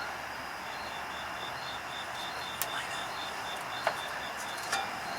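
A few light metallic clicks and clinks from wrenches and bolts during work under a truck, over a steady outdoor hiss. A faint, rapid high chirping, about five pulses a second, runs through most of it.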